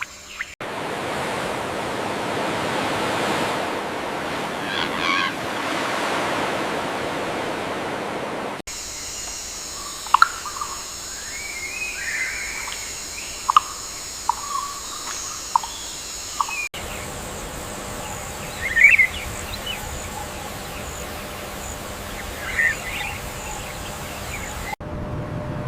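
Outdoor nature sound in several abruptly cut segments: a steady rushing noise at first, then scattered short bird chirps and calls over a faint, steady high-pitched hum.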